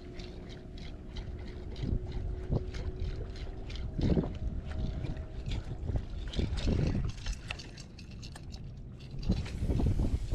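Wind buffeting the microphone on a small fishing boat on the water, swelling in gusts a few times. A faint steady hum runs underneath for the first few seconds.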